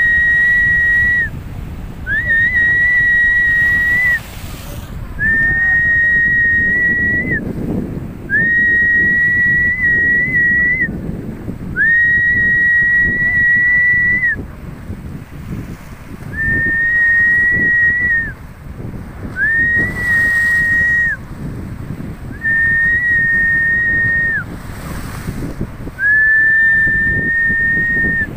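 A high, steady whistling tone sounding about ten times in a row, each one lasting one to two seconds with short gaps between, some sliding up briefly as they start. Beneath it is the constant rumble of strong wind and heavy surf.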